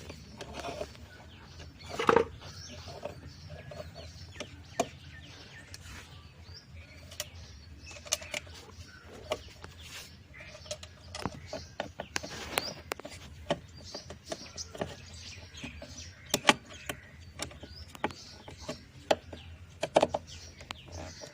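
Scattered clicks and knocks of plastic and metal parts being handled on a top-loading washing machine during repair, over a low steady hum, with birds chirping in the background.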